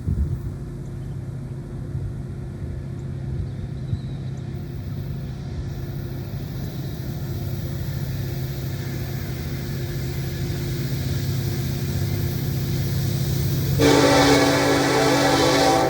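Diesel locomotive approaching, its low engine drone growing steadily louder, then the locomotive's air horn blasting loudly for about two seconds near the end.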